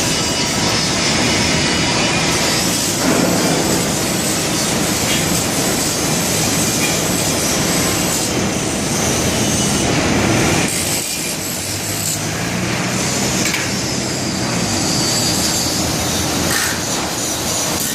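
Loud, steady industrial machinery noise from a workshop where engine cylinder blocks are handled, with a faint low hum coming in about eleven seconds in.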